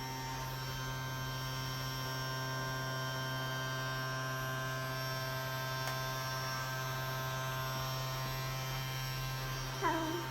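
A hoover's motor running with a steady, even hum. Near the end a child's brief voice rises over it.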